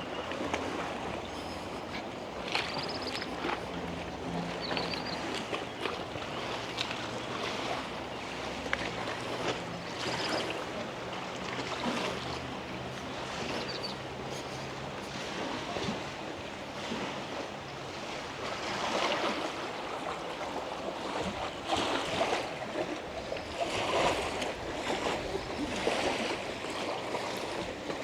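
Lake water lapping and splashing against the shore, with a low steady motor hum through roughly the first half that fades out.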